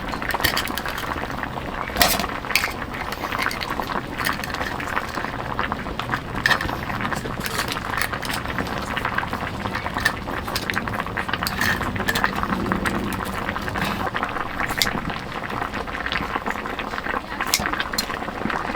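Food cooking over a wood fire, bubbling and sizzling with a steady dense crackle, with occasional sharp clinks of utensils or dishes.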